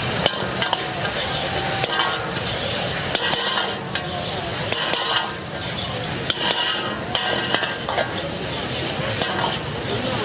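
Chilli chicken sizzling as it fries in a pan and is stirred, with frequent sharp scrapes and clinks of the utensil against the pan over a steady hiss.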